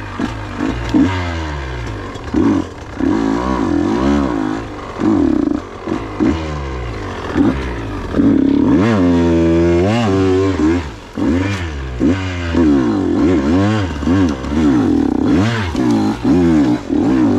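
KTM 125 XC's single-cylinder two-stroke engine revving up and down again and again, the throttle worked repeatedly as the bike pushes through deep swamp water and mud. There is a short drop in revs just after the middle.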